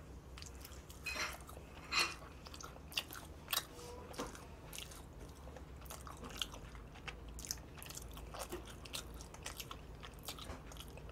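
Close-up mouth sounds of a person chewing and biting a soft, oily, doughnut-like pastry: quiet, wet smacks and clicks scattered through, the loudest about 2 seconds in.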